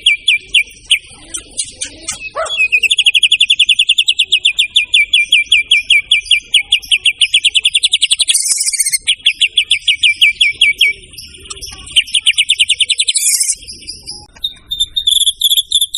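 White-rumped shama (murai batu) singing long runs of rapidly repeated sharp notes, around eight a second, broken by short pauses about halfway through and near the end.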